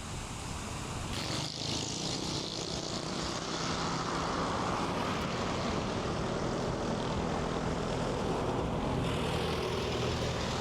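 An engine running steadily, a low even hum under a haze of noise that grows louder about a second in.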